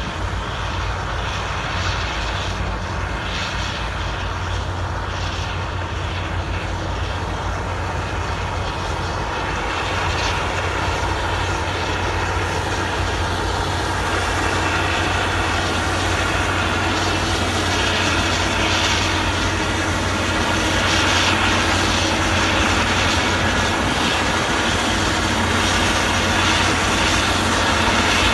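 Diesel engine of a heavy construction machine running steadily with a deep hum, slowly growing louder.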